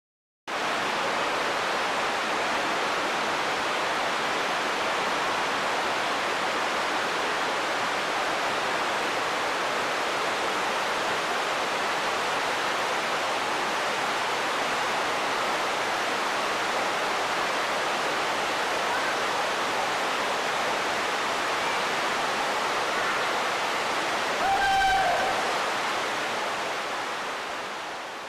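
Waterfall: a steady, even rush of falling water. About 24 seconds in, a short pitched call briefly rises above it, and near the end the sound fades out.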